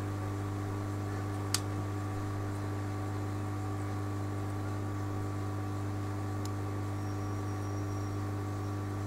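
Steady electrical hum with an even hiss underneath, and a single sharp click about one and a half seconds in.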